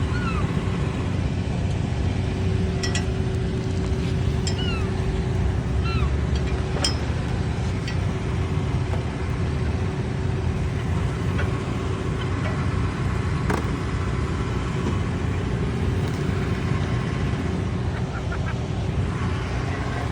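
Steady low rumble with a steady hum throughout, with a few short falling squawks from seagulls about four to five seconds in.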